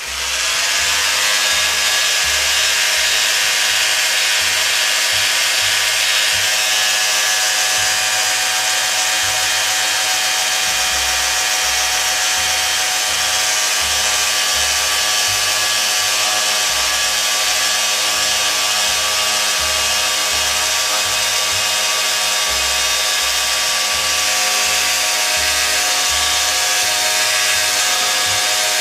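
Electric power sander switching on, spinning up over about a second, then running steadily with a constant whine and hiss while sanding 120-grit paper over dried JB Weld epoxy on a metal horn.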